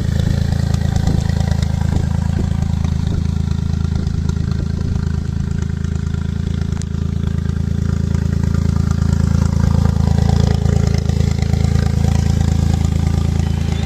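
Smart Roadster's turbocharged three-cylinder engine running steadily through a home-made straight-through exhaust with a perforated baffle fitted, a deep exhaust drone that swells slightly about two-thirds of the way through.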